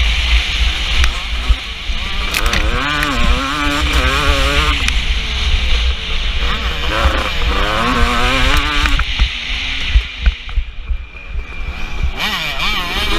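KTM 250 SX two-stroke motocross engine revving hard and easing off again and again as the bike is ridden round the track, its pitch rising and falling with the throttle, over a constant heavy low rumble. About ten seconds in the engine drops back and goes quieter for a couple of seconds, then picks up again.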